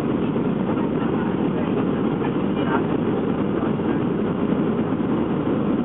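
Steady cabin noise inside a Boeing 737-400 on final approach: the even, low rush of airflow and the CFM56 turbofan engines.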